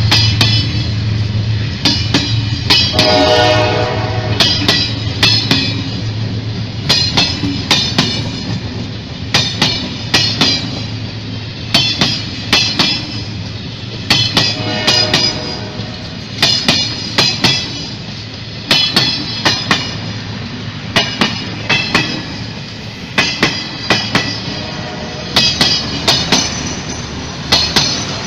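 A train's wheels clacking over rail joints, in groups of clicks that repeat about every two seconds. The horn sounds about three seconds in and again, more weakly, near the middle.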